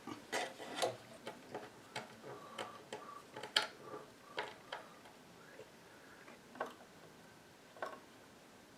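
Irregular light clicks and taps of small parts and hand tools being handled on a workbench. They come thick for the first few seconds, then only now and then, with two more near the end.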